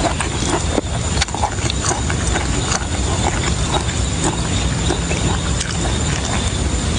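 Close-miked chewing of boiled beef tripe: rapid wet crunches, smacks and mouth clicks over a steady low rumble.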